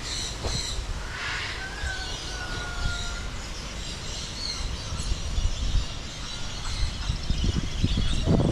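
Small birds chirping over a steady low rumble, with a long, slowly falling call about two seconds in and another starting near the end.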